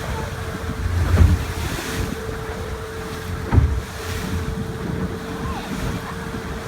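Wind buffeting the microphone aboard a boat under way, with water noise and a steady hum. Low thumps come about one second and three and a half seconds in.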